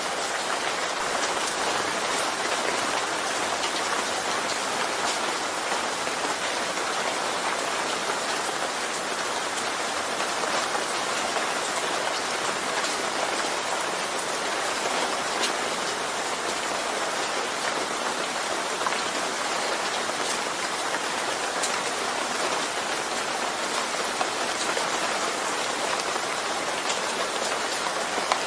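Steady rain falling on a surface, a constant even hiss with scattered individual drop ticks.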